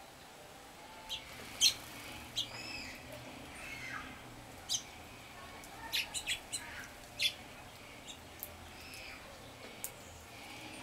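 Small wild songbirds calling: a scattering of short, sharp chip notes, irregular and overlapping, with a few brief slurred call notes about three seconds in.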